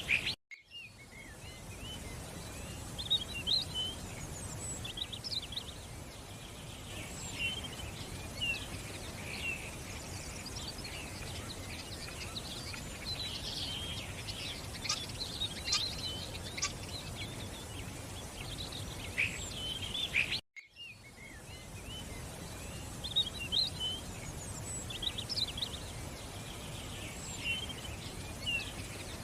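Many songbirds chirping and calling over a steady outdoor hiss. The sound cuts out for a moment twice, near the start and about two-thirds of the way through, then resumes.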